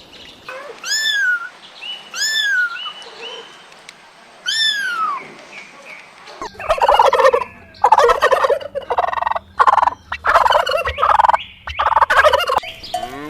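A bird calling: three separate arched calls, each rising then falling in pitch, then from about halfway a long run of quick, choppy calls in short repeated bursts.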